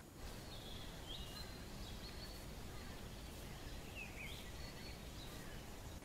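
A bird calling faintly: a few short high whistled notes, about half a second in and again past the middle, over a steady hiss of open-air background noise.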